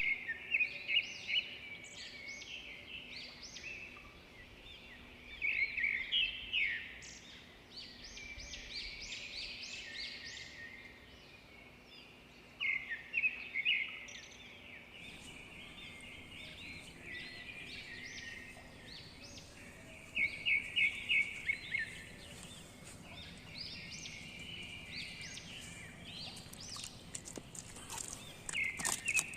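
Birds chirping and singing in repeated bursts of short high calls, with quieter ambience between the bursts.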